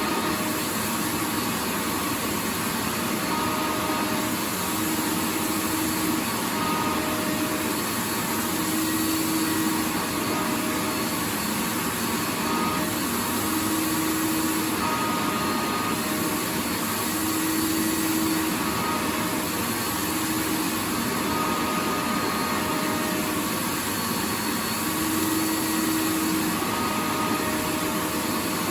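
Vacuum cleaner running continuously: a steady rushing hiss of its motor and airflow, with a faint hum that fades in and out every few seconds.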